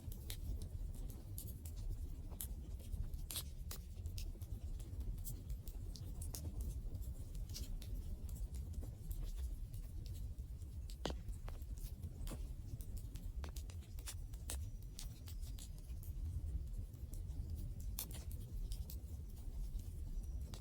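Wood fire (bonfire) crackling: irregular sharp pops and snaps over a steady low rumble.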